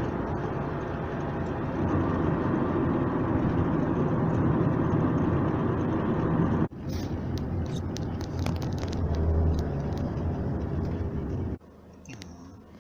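A motor vehicle's engine running steadily. It breaks off for an instant about halfway through and stops sharply near the end.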